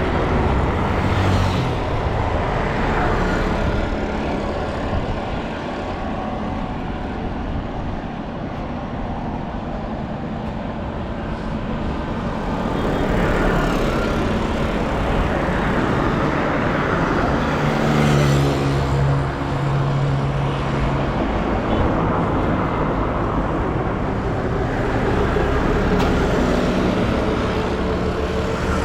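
Street traffic: cars and other motor vehicles running and passing in a steady wash of road noise. Around eighteen seconds in, a vehicle engine's low hum stands out for a few seconds.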